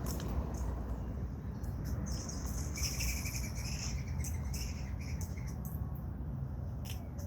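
Small birds chirping in a cluster of high calls for a few seconds, over a steady low rumble.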